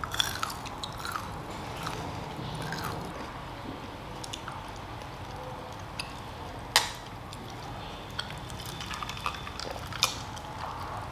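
Chewing of crispy fried potato bites, with a few sharp clinks from glasses of iced cola. The loudest clink comes about seven seconds in.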